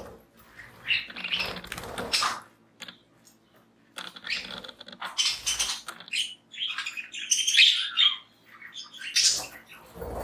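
Pet budgies chirping and chattering in irregular bursts, with short pauses between.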